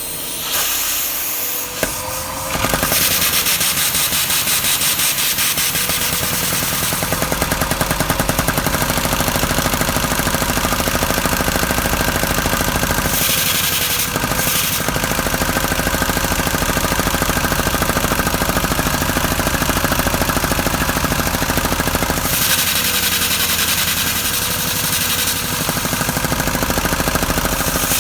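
A LEGO single-overhead-cam vacuum engine running fast, driven by a vacuum cleaner's suction. Its plastic piston, cam and valve parts make a rapid, dense clatter over the vacuum cleaner's steady hum. It comes up to full speed about two to three seconds in.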